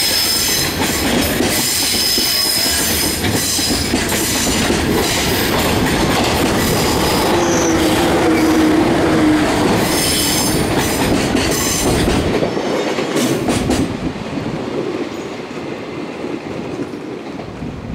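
Container wagons of a freight train rolling past, with steady wheel-on-rail noise and high-pitched wheel squeal. About halfway through a local electric train passes close by on the nearer track, and after about fourteen seconds the noise fades as both trains move away.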